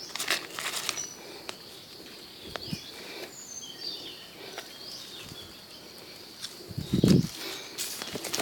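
Rustling and crackling in dry leaf litter and ground cover, with a few short bird chirps and one louder, low rustling thump about seven seconds in.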